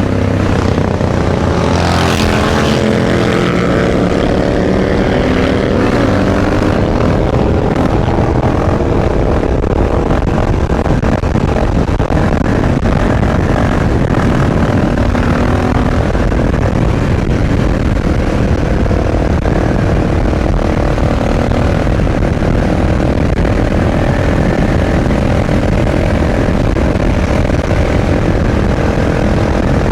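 Supermoto motorcycle engine under way, its pitch rising and falling with the throttle and gear changes over the first several seconds, then holding a steadier note, over a steady rushing noise.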